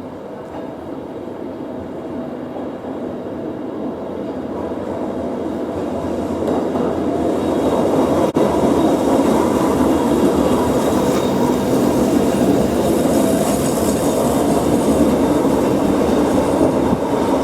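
A Fukui Railway streetcar approaching and running by on street track. It grows steadily louder over the first eight seconds, then stays loud with a rumble of wheels on rail and faint steady tones over it. There is a momentary gap in the sound about eight seconds in.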